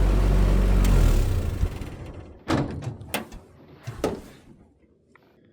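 Deuce-and-a-half military truck running at road speed, a steady low drone that fades out over a second or so, followed by three sharp knocks.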